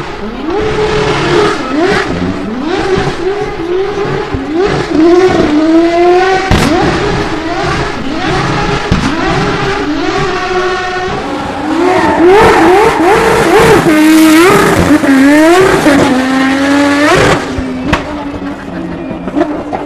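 Drift car engine revved hard over and over, its pitch climbing and dropping back about once a second, over a hiss of tyre noise. Near the end it settles to a steady, lower, quieter note.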